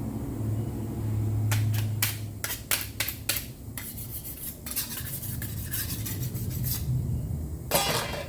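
Metal body-filler spreader scraping body filler in quick, irregular strokes, with one longer scrape near the end, over a steady low hum.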